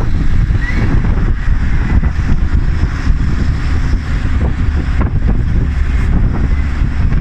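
Wind buffeting the microphone from a moving vehicle, a loud steady rumble over engine and road noise.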